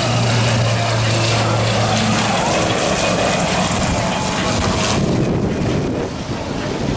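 Airliner on landing approach passing low overhead: a loud, steady engine roar that drops off sharply about five seconds in, with a low hum under it for the first two seconds.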